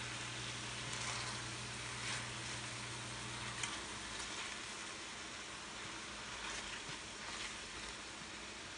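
Shredded chicken frying in a stainless steel pan, a steady light sizzle, with a few soft scrapes and taps as it is stirred with a utensil. A low hum underneath cuts off about three and a half seconds in.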